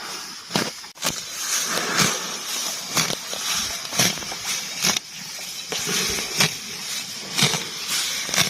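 Water buffalo grazing: crisp rips and crunches as it tears off and chews mouthfuls of grass, about once a second.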